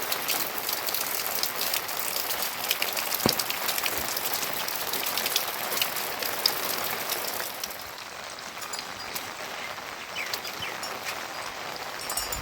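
Steady rain falling, with many close drops ticking sharply; it softens about two-thirds of the way through.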